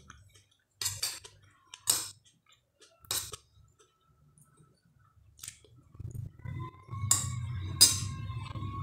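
Chewing a mouthful of food, with a few separate sharp clicks and clinks. From about six seconds a steady low hum with a faint held tone joins. The two loudest clicks come near seven and eight seconds.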